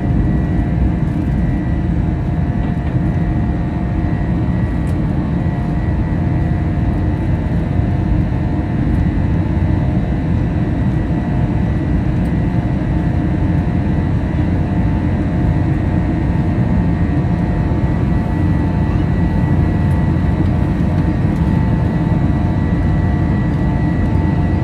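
Airbus A321's jet engines running steadily at climb power, heard inside the cabin: a loud, even rumble with constant whining tones over it.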